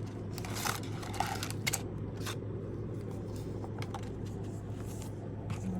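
Small taps, clicks and rustles of hands handling the contents of a subscription box and its packaging, busiest in the first couple of seconds, over a steady low hum.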